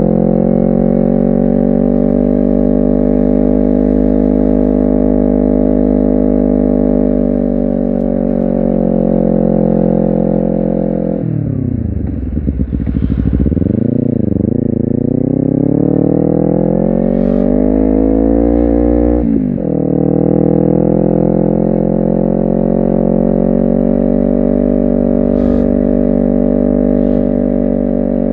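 Honda CBR250RR engine and exhaust under way, running at a steady pitch. About eleven seconds in, the revs drop sharply and waver, then climb steadily for several seconds. A brief break near the end of the climb is followed by a steady pitch again.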